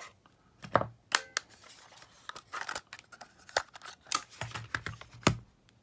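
Irregular sharp clicks and small knocks from a Sony Walkman WM-600 cassette player's plastic case being handled, about ten over a few seconds.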